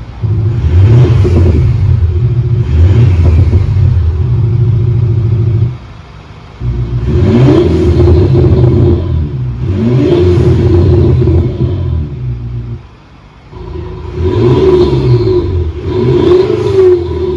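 Mercedes-Benz CLS 300d diesel being revved repeatedly while a Thor active sound generator plays a synthetic AMG-style exhaust note in time with the engine. There are about six revs, each climbing and then falling back, with the sound briefly dropping away twice, around a third and three-quarters of the way through.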